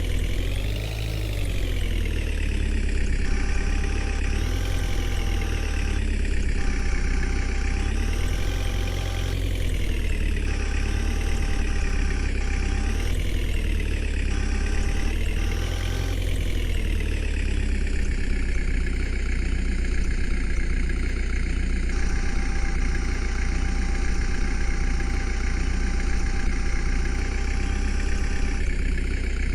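Tractor diesel engine running, its pitch rising and falling again and again through the first half as it is revved up and down, then settling into a steady, even run. A faint steady whine comes and goes over it.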